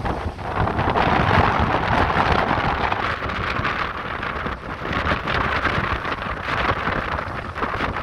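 Ocean surf washing and crashing against coastal rocks, swelling and easing in surges, with strong wind buffeting the microphone.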